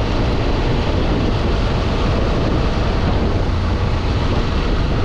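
CFMoto Ibex 800 E motorcycle riding along, its parallel-twin engine running under a steady rush of wind over the rider's microphone.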